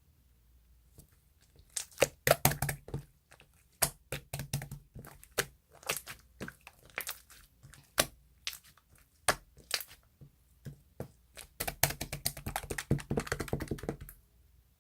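Irregular sharp clicks and taps in small clusters, with a dense rapid run of them near the end.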